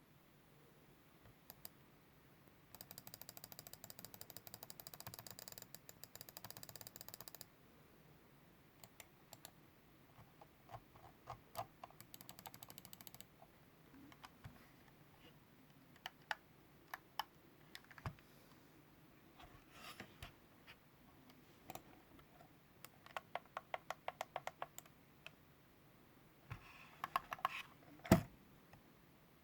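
Computer mouse buttons clicking: a long run of very fast clicks early on, then scattered single clicks and short quick bursts, with one louder knock near the end.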